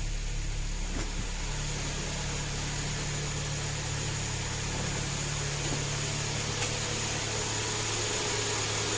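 Kia Optima's freshly rebuilt G4KE 2.4-litre four-cylinder engine idling steadily on its first start after the overhaul, with no knocking; its low note shifts slightly about two seconds in.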